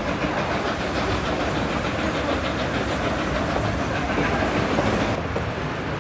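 Durango & Silverton narrow-gauge steam train running along the track, wheels on the rails making a steady rumble with a fast, even clatter. The sound turns duller near the end.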